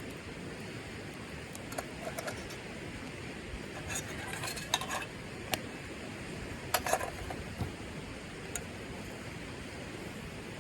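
Eating utensils clinking and knocking against dishes or a pot, several light clicks in small clusters over a steady background hiss.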